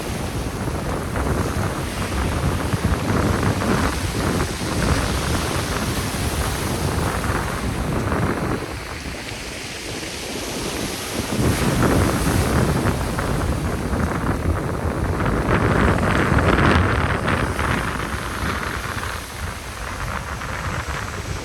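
Black Sea surf: waves breaking and washing up the shore in swells, easing off about halfway through and then surging louder again, with wind buffeting the microphone.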